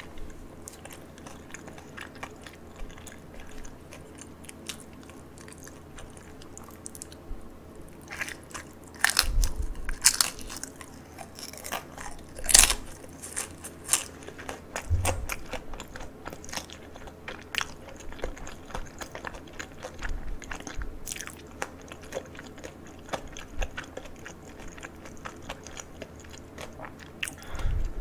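Close-miked chewing and biting of crispy food, a run of sharp crunches and smaller mouth clicks. The crunching is loudest a little before halfway through, with one especially sharp crunch.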